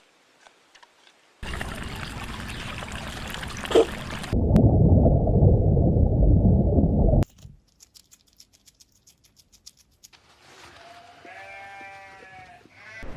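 Stretches of rushing noise, the loudest from about four to seven seconds in, cutting off suddenly. Then a sheep bleats once near the end, a wavering call.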